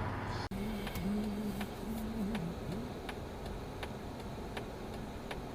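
A car's turn-signal indicator ticking steadily, about two and a half clicks a second, heard inside the cabin. A faint low tone wavers in pitch under the first couple of seconds of ticking.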